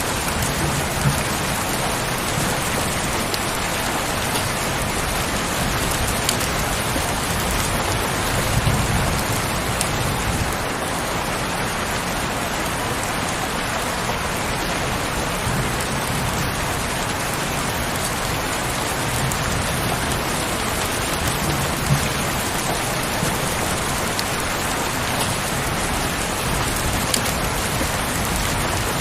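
Steady heavy rain falling as a dense, even hiss of drops, with a few brief low swells.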